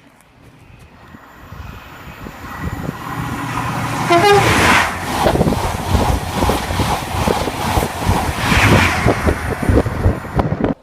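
A train passing through the station at speed. Its noise builds over the first four seconds, then comes a rapid clatter of wheels over the rail, with a brief horn toot about four seconds in.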